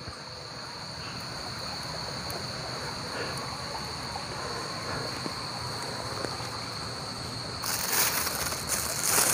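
Crickets trilling steadily as one unbroken high tone. From about three-quarters of the way in, a louder rustling, crackling noise joins it.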